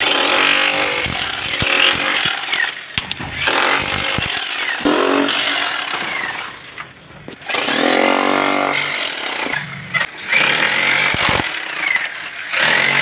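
Handheld power cutter cutting a chase into a wall for concealed basin pipework, its pitch rising and falling with the load. The tool eases off briefly around seven seconds in.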